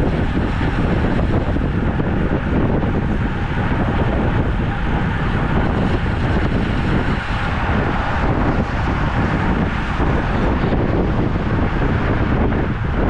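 Steady rush of wind on the microphone while riding a road bike at speed.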